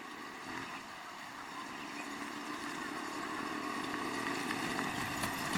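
A motor vehicle's engine running steadily, growing slowly louder.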